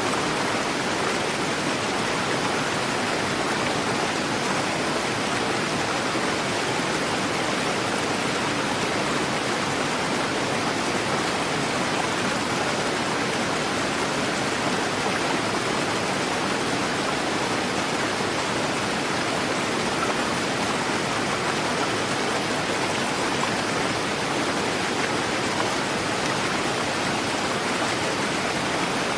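A swift river rushing, a steady even rush of water.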